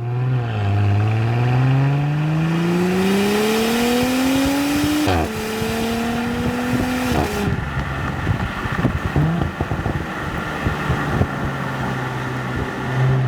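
Audi SQ5's turbocharged 3.0-litre V6 exhaust under hard acceleration: the revs climb steadily for about four seconds, then drop sharply with a crack at an upshift about five seconds in. The revs fall again when the throttle closes, followed by a run of pops and crackles on the overrun before the exhaust settles to a steady low drone.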